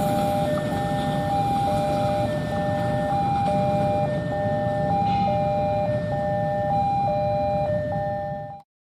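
Level crossing warning alarm sounding an electronic two-tone signal, alternating high and low about every three-quarters of a second, over a low rumble. It cuts off suddenly near the end.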